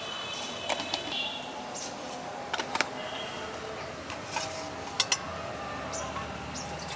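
Scattered light clicks and knocks over a steady low background, with a pair of sharp taps about five seconds in.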